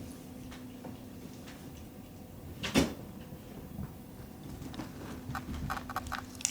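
A single sharp knock about three seconds in, then a few light taps near the end, over a faint steady hum.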